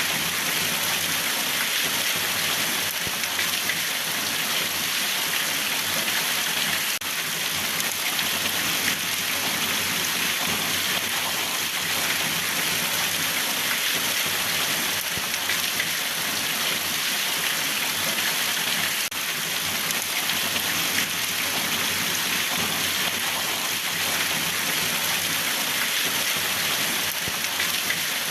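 Steady, even rainfall, a constant patter of drops on a surface.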